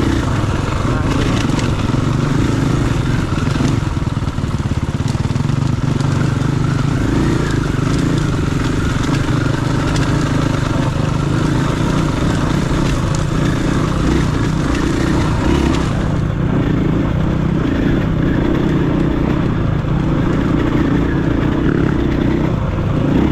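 KTM 500 EXC-F dual-sport motorcycle's single-cylinder four-stroke engine running on a trail ride, its note holding steady with small rises and falls in throttle.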